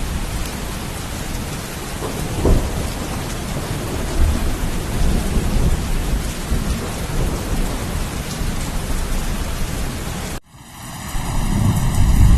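Steady rain with rolling thunder, a sharper thunderclap about two and a half seconds in and low rumbles after it. Near the end the rain cuts off suddenly and a deep rumble swells up in its place.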